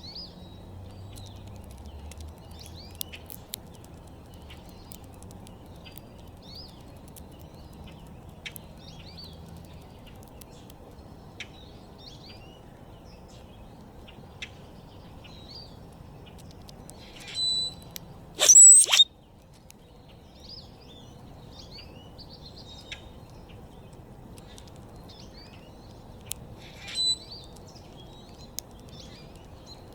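Backyard songbirds chirping and calling: many short, high chirps throughout, with a few much louder calls close by about halfway through and again near the end, over a steady low background rumble.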